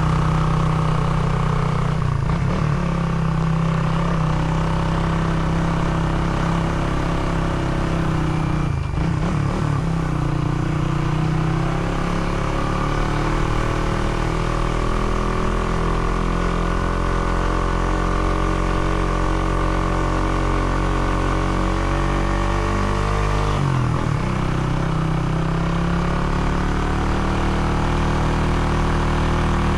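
A motor vehicle's engine runs steadily under way, its pitch drifting slowly. The engine note breaks briefly about 2, 9 and 24 seconds in.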